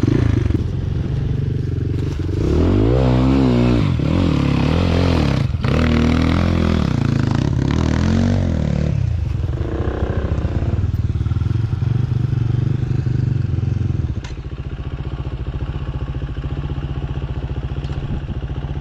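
Enduro motorcycle engine running close by, revved up and down repeatedly through the first half, then running steadier and a little quieter for the last third.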